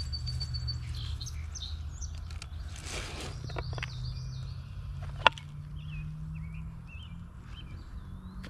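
Birds chirping in short, twittering calls, with one sharp knock about five seconds in, over a steady low rumble.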